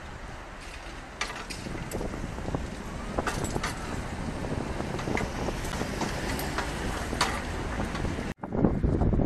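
A train approaching on the track, a steady rumble of wheels on rails that slowly grows louder, with a few sharp clicks. Near the end it cuts off abruptly into wind buffeting the microphone.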